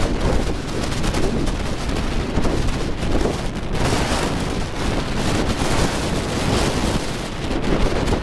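Strong wind buffeting the microphone, a loud rumbling noise that swells and drops in uneven gusts.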